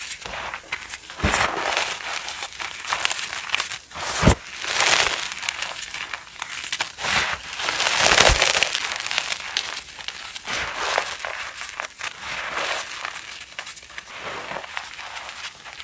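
Crunchy reformed chalk being crushed and crumbled, a dense run of crackling crunches. Heavier crunches come about one, four and eight seconds in.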